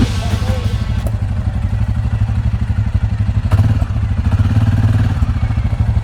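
Quad bike engine running steadily at low revs with a fast, even pulse, and a couple of sharp knocks.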